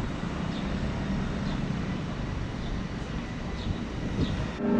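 Steady low rumble of a moving vehicle, with a few faint high squeaks, cut off suddenly near the end.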